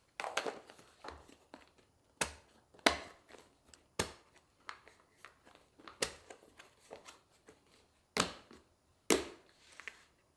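Kitchen handling sounds: an irregular run of soft clicks and rustles with several sharp knocks, the loudest near the start, about four seconds in and again about eight and nine seconds in, as items are handled and set down.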